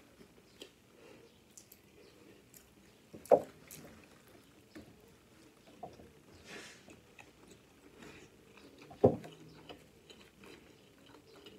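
Close-up chewing of a mouthful of sushi, with soft wet mouth clicks. Two sharp knocks, about three seconds in and about nine seconds in, are the loudest sounds.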